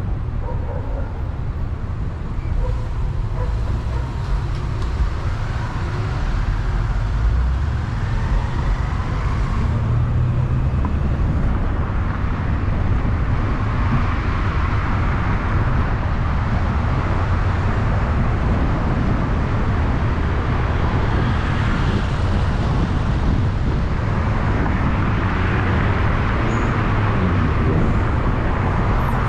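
Car driving on the road: a steady low rumble with tyre and road hiss that grows somewhat louder about halfway through.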